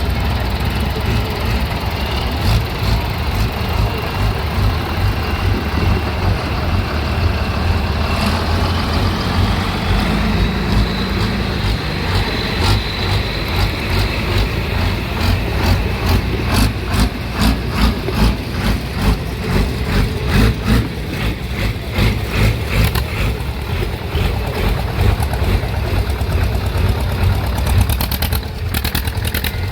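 Old engines running steadily. About halfway in, one engine's slow, even exhaust beat comes to the fore, several beats a second.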